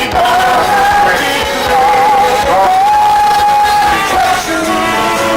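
A man singing a slow gospel song with musical accompaniment; one note is held for over a second near the middle.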